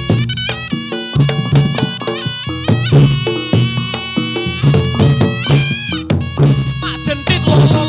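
Reog Ponorogo music: a reedy slompret (shawm) melody, wavering in pitch, playing over a steady beat of drums and gongs.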